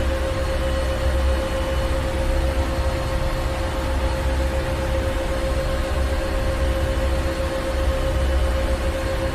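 Ship's engine room: heavy machinery running steadily, a low rumble under a constant hum and an even hiss.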